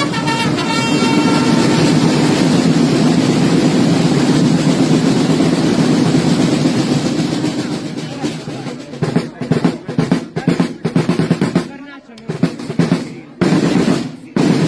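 Massed side drums of a carnival drum corps playing a sustained roll that breaks up, about eight seconds in, into separate beats.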